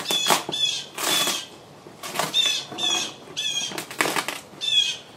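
A small bird chirping over and over, short calls repeated roughly twice a second, mixed with the crinkle of a plastic release sheet being handled and peeled off a fiberglass tube.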